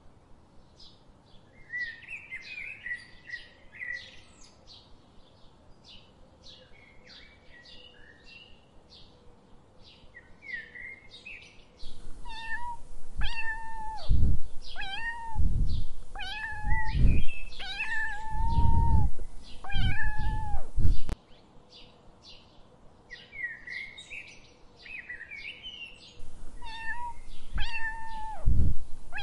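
Cats and a kitten meowing over and over, short high mews about one a second at the loudest. Quieter stretches hold softer, high chirping calls.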